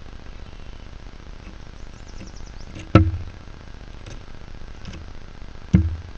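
Woodpecker pecking: two loud single knocks about three seconds apart, the first about three seconds in and the second near the end.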